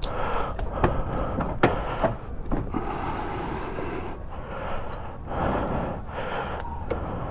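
Steady vehicle and road noise with several sharp clicks and knocks scattered through it.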